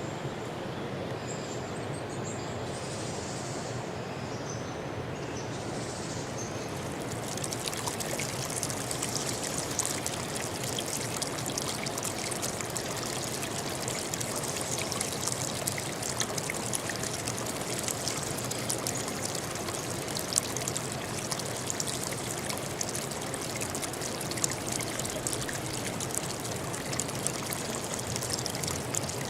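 A small stream trickling and splashing steadily over stones; the water gets brighter and fuller about seven seconds in. A few faint high chirps come in the first six seconds.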